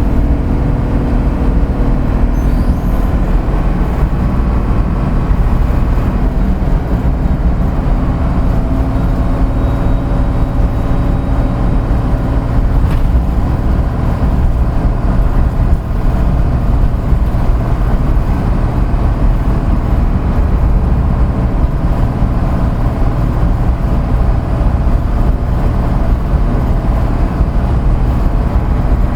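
Route bus running on the road: its diesel engine drones steadily with a strong low rumble, the engine note shifting only slightly.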